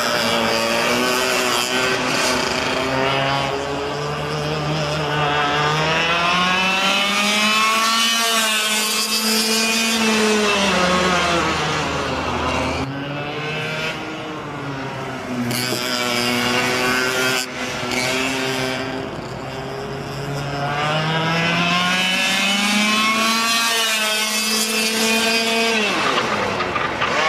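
Easykart 125 racing kart's two-stroke engine at speed, its pitch climbing steadily as it pulls up through the revs, then falling off as it slows. This happens twice, with a sharp drop near the end.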